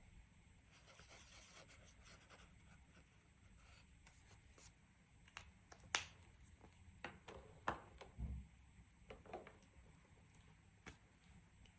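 Faint scratching of a coloring tool on paper for the first few seconds, then several light clicks and taps, the sharpest about halfway through, and a soft low thump a little after that.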